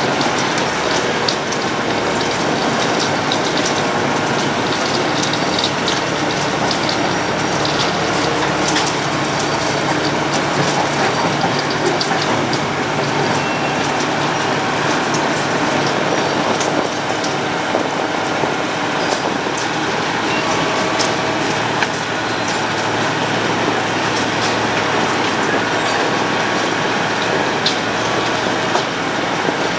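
Road planer (cold milling machine) at work, its cutting drum grinding up the road surface with a steady dense rattle and many scattered sharp clicks.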